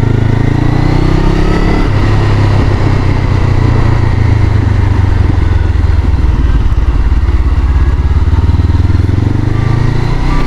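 Honda CBR500R's parallel-twin engine pulling up through the revs, then an upshift about two seconds in and steady running under way.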